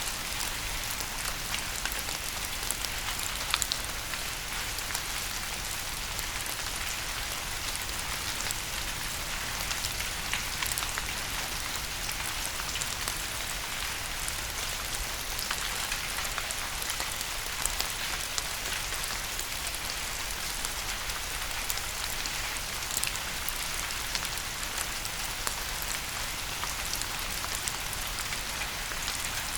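Steady rain falling, an even hiss dotted with the sharp ticks of individual drops, with one louder drop hit about three and a half seconds in.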